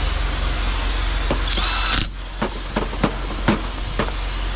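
Power drill running, then cutting off about two seconds in, followed by a handful of sharp metal clicks of tools being handled.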